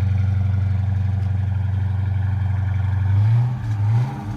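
Dodge Charger R/T's 5.7-litre HEMI V8 idling steadily, then revved in two quick blips of the throttle about three seconds in.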